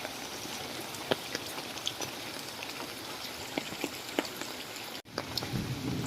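Steady rain falling, with individual drops tapping sharply close by. The sound drops out briefly about five seconds in, and a low rumble comes in near the end.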